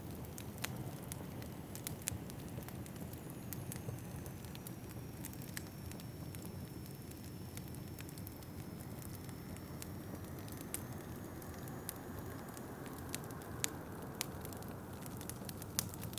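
Wood fire crackling in a fireplace, with scattered sharp pops and snaps over a steady low rush of wind. A faint high whistle of wind dips and rises again through the middle.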